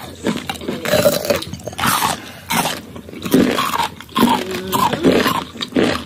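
Biting and chewing slices of unripe green mango close to the microphone: loud, irregular wet crunching with mouth sounds.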